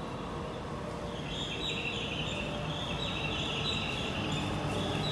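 Low rumble of an approaching shinkansen, an E6 Komachi coupled to an H5 Hayabusa, growing slowly louder, with repeated high chirping over it from about a second in until near the end.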